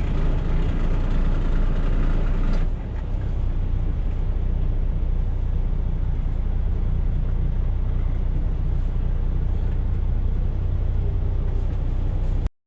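Semi truck's diesel engine running steadily with a deep rumble; the sound cuts off suddenly near the end.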